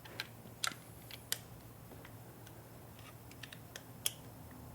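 Scattered sharp, irregular clicks from a hand tool on a bolt as the last of the PCV valve cover's bolts is snugged down by hand.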